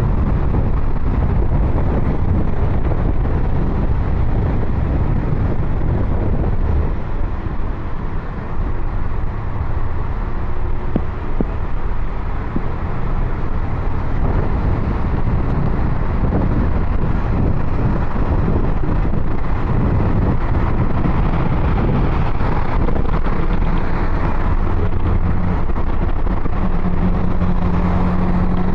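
Car driving on a road, a steady rumble of tyre and engine noise with a low hum that grows stronger near the end.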